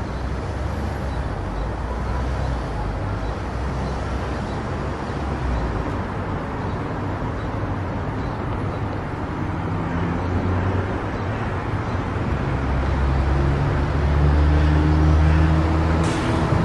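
Car driving on a road: a low engine hum with steady tyre and road noise, the engine note rising slightly and getting louder in the last few seconds as it speeds up.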